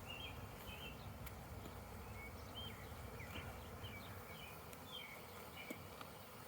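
Honeybees buzzing around an opened hive, a faint steady hum, in a defensive state typical of bees that feel attacked. Short high chirps come and go over it.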